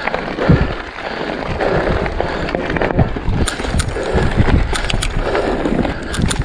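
Mountain bike rolling over a rough forest trail: steady tyre noise with repeated knocks and rattles from the bike, and sharper clicks in the second half.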